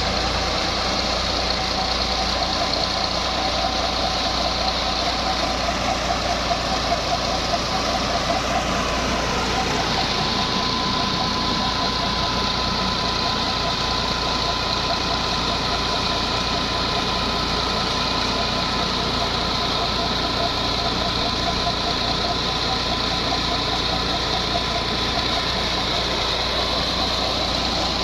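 Tractor engine running steadily, driving a water-well drilling rig through its PTO; the tone of the machinery shifts slightly about nine seconds in.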